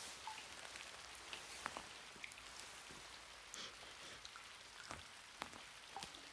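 Faint steady rain, with scattered drips striking the pavement.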